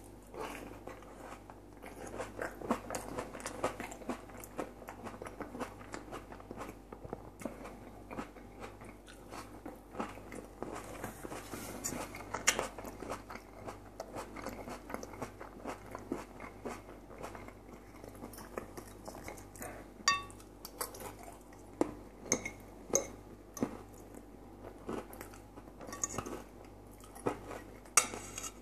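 A man chewing a mouthful of food close to the microphone, with many small wet clicks of biting and chewing. In the second half a fork clinks on a ceramic plate a few times, once with a short ring about twenty seconds in.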